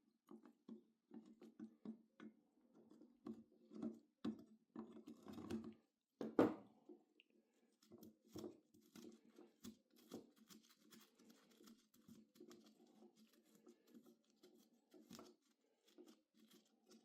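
Faint, irregular clicking and scraping of objects being handled, with one louder knock about six and a half seconds in.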